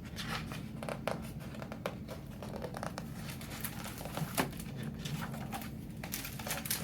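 Light rustling and scattered soft clicks of a picture book's paper pages being handled and turned, over a faint steady low hum.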